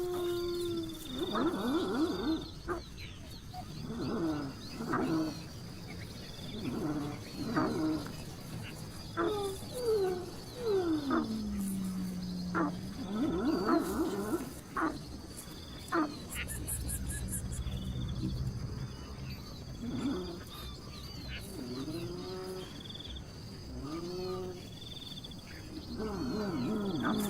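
An animal calling over and over in short pitched cries, with one long cry gliding down in pitch about halfway through and a last run of cries near the end. Faint, evenly repeated high chirps sound behind.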